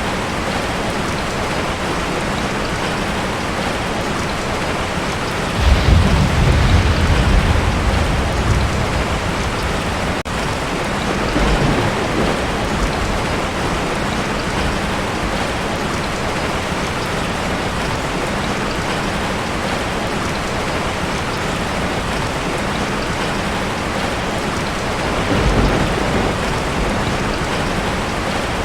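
Heavy rain falling steadily on a tin roof. A rolling peal of thunder comes about six seconds in and lasts a few seconds, with a fainter rumble around twelve seconds and another a few seconds before the end.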